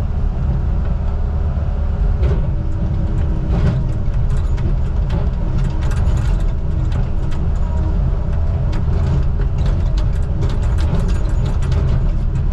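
Heavy diesel engine of logging equipment running steadily, with scattered clicks and knocks over it.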